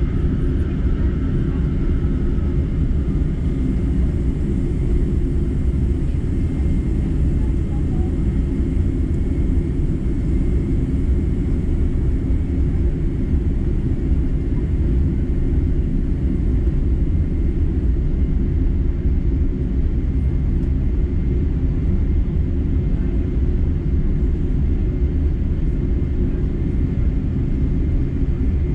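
Boeing 747-8's GEnx engines and airflow heard from inside the passenger cabin while taxiing after landing: a steady low rumble with a faint high whine running through it.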